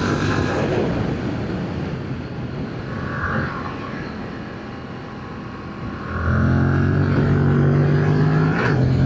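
Yamaha MT-07's 689 cc parallel-twin engine on the stock exhaust, under way: a steady note on throttle at first, quieter for a few seconds as the throttle is eased, then back on the power with a loud steady note about six seconds in, briefly broken near the end.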